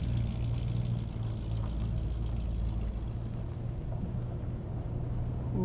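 1964 Buick LeSabre's V8 running steadily and quietly with an even low hum and no knock. The owner put the earlier knocking down to loose torque converter bolts.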